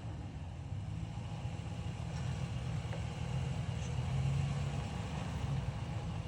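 Ram 1500 pickup's engine running low and steady as the truck crawls down a steep rock trail, swelling slightly about two-thirds of the way through.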